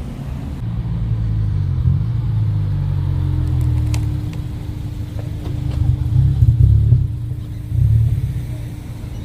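Car engine running with a deep, low rumble, surging louder in a few bursts about six to seven seconds in and again near eight seconds.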